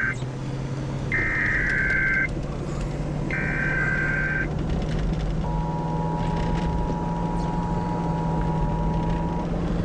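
Emergency Alert System broadcast tones: the end of one and then two more warbling data bursts of the header code, each about a second long, followed by the steady two-tone attention signal for about four seconds, which announces a tornado warning. A vehicle engine hums steadily underneath.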